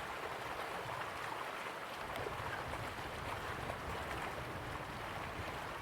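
Slow-flowing river water running steadily, a continuous gurgling wash with small splashes and trickles flecked through it.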